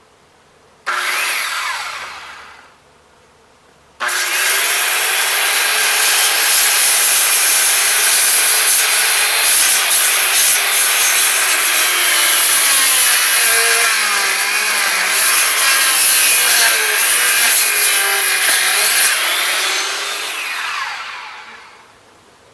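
Electric power saw cutting wood: a short burst about a second in that winds down, then a long loud cut from about four seconds in, its pitch shifting under load, winding down near the end.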